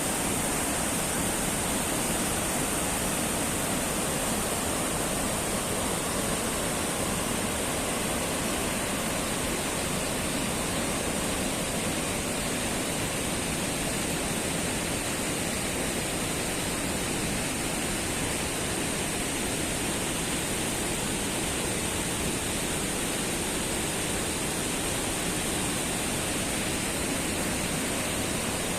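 Steady rushing of flowing water, unbroken throughout, with a constant high hiss over it.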